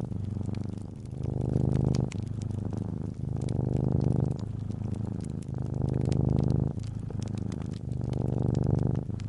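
Domestic cat purring, a low buzz that swells and eases with each breath about every two seconds, over the light crackle of a fireplace fire.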